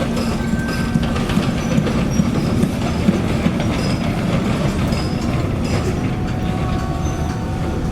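Heavy construction machinery running steadily: a diesel engine with a dense clatter of metal rattles and clanks.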